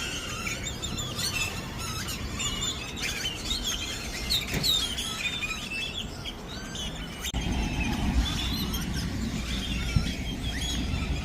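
A large flock of birds in one tree, calling and chirping at once: many short, overlapping whistles and squeaks. A low steady rumble joins about seven seconds in.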